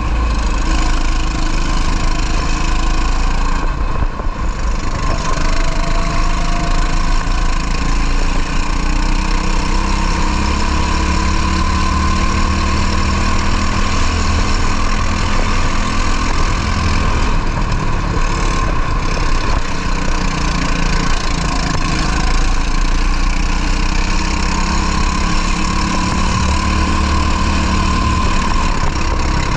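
Racing kart engine running hard under load, its pitch slowly rising and falling along the straights and corners, with brief drops in level around four seconds in and again around eighteen seconds in as the throttle eases.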